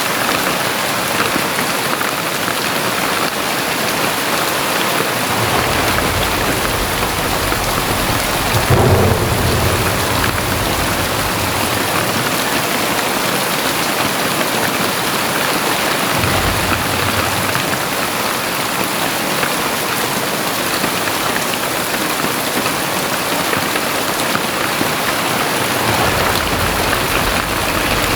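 Very heavy rain pouring down steadily, with deep rumbles of thunder rolling in twice, the louder one swelling about nine seconds in.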